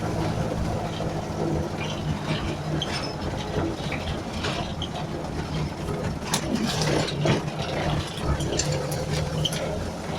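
Moskvich car engine running on LPG, pulling in second gear, with frequent rattles and clicks from the car. It gets louder for a while about six to seven seconds in.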